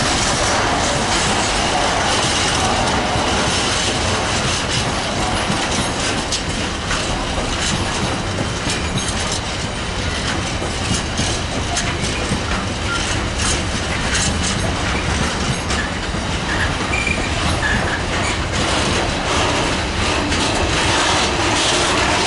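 A freight train's wagons rolling past: a steady rumble of steel wheels with a stream of clicks as they cross rail joints, and a few short wheel squeals about two thirds of the way through.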